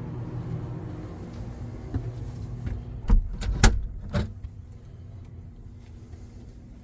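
Steady low drone of a boat's running machinery below decks, with three sharp metallic clunks about three to four seconds in.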